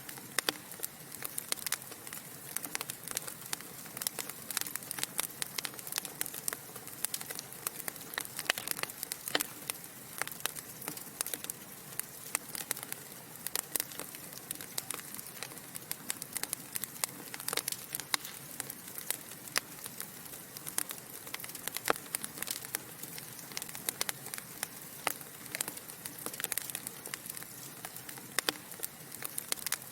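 Wood fire burning in a fireplace: dense, irregular crackling and popping of burning logs over a steady soft hiss.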